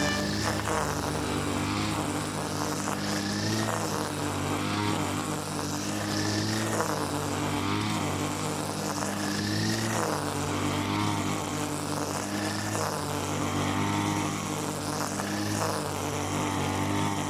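Small petrol engine running steadily, its note swelling and easing every two to three seconds as the load changes.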